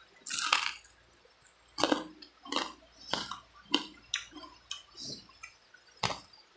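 A person eating chicken feet close to the microphone: an irregular run of about a dozen short, wet chewing and lip-smacking clicks.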